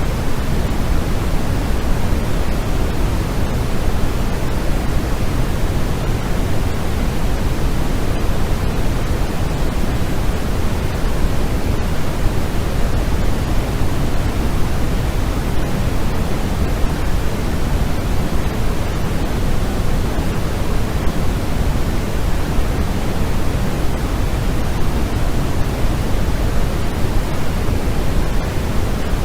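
Steady sleep noise that the track calls white noise but is weighted toward the low end, closer to pink noise: an even, unchanging hiss and rumble with no tones or events.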